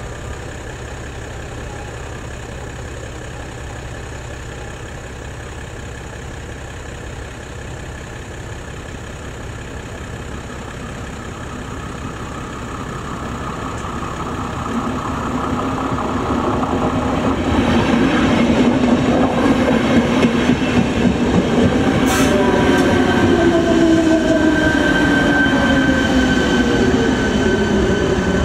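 ČD class 471 CityElefant double-deck electric train approaching a level crossing, its rumble building over about six seconds to a loud, steady running noise. From about two-thirds of the way through, a whine falls in pitch. A steady high tone from the crossing's warning bell sounds throughout.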